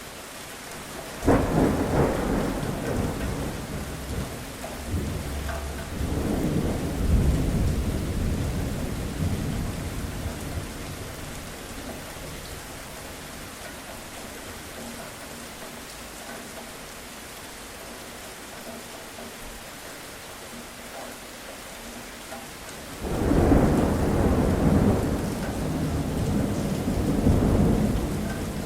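Steady rain with thunder: a sudden crack about a second in that rolls on and swells again before fading, then after a stretch of rain alone, a second long rumble near the end.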